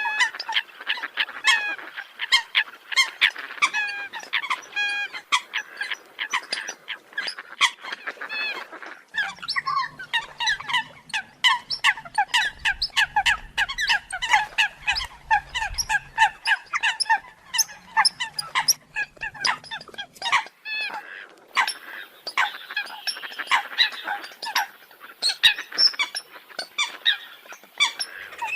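Eurasian coots calling: a dense run of short, sharp, honking calls, several a second and overlapping, as from a flock. A low hum sits under the calls through the middle.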